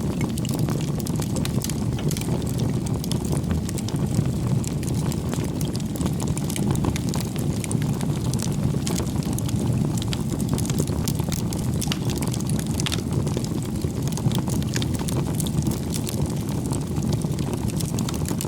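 Campfire of burning firewood: a steady low rushing of flames with frequent small crackles and pops from the wood.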